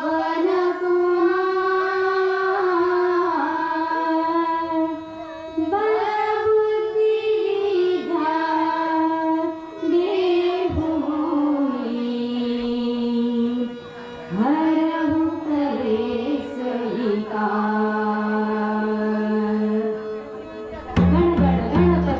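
A woman singing a slow devotional bhajan verse in long, drawn-out melismatic phrases over held accompanying notes. Near the end, percussion comes in with a steady beat.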